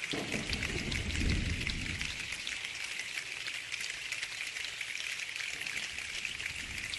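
People imitating rainfall, making a steady, dense patter of many small clicks like raindrops, with a low rumble in the first two seconds.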